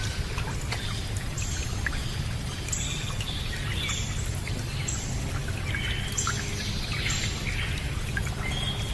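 Running water trickling and pouring steadily, with birds chirping over it, a short call about every second.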